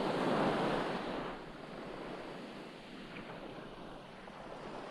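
Ocean waves washing on a shore: a swell of surf in the first second or so, then easing into a softer, steady wash.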